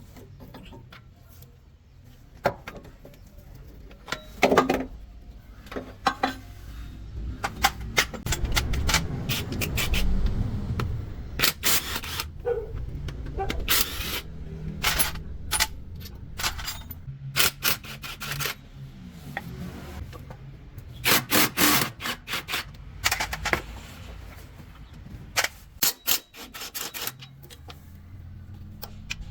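Hand tools and metal parts clinking and knocking during work on a truck gearbox: scattered irregular strikes, some in quick clusters, over a low rumble that comes and goes.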